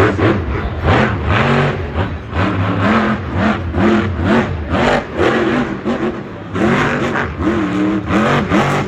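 Monster truck engine revving hard in repeated bursts, its pitch climbing and dropping about once a second.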